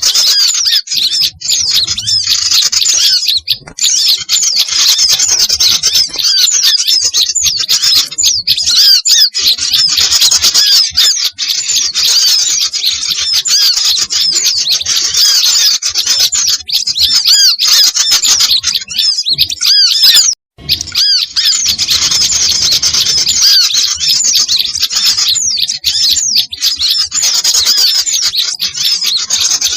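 A dense chorus of many small songbirds chirping, twittering and calling rapidly over one another: a bird-lure recording of the kind played to draw small birds in. The calls break off for an instant about two-thirds of the way through, then carry on.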